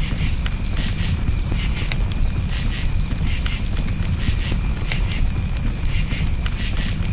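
A campfire crackling, with a steady low rumble and scattered sharp pops, under crickets chirping in short bursts that repeat every second or so.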